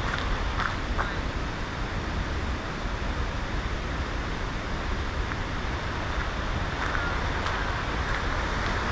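Steady rushing of water falling in a waterfall, an even roar with no pauses.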